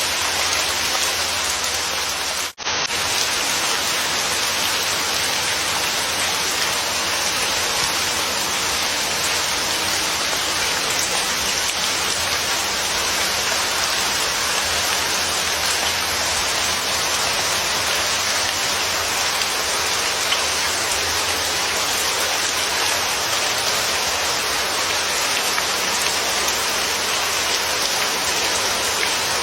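Steady, heavy rain falling on a surface, an even hiss of drops. It cuts out for a split second about two and a half seconds in, then carries on unchanged.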